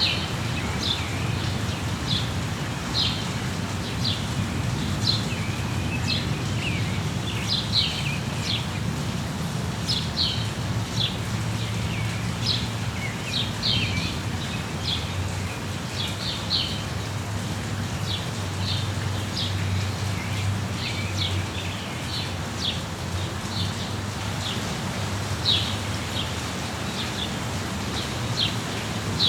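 Small birds chirping in quick, short notes over steady rainfall, with a low rumble underneath.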